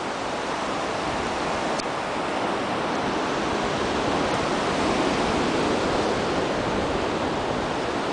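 Ocean surf breaking and washing onto the beach: a steady, even hiss that swells slightly and eases.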